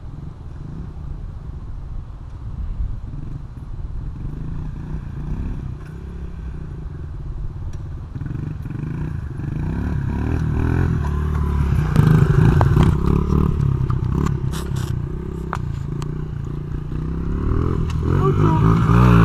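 Small four-stroke Honda CRF70 pit-bike engine running and being given throttle. It grows louder with revs about ten to twelve seconds in, eases off, then revs up again near the end.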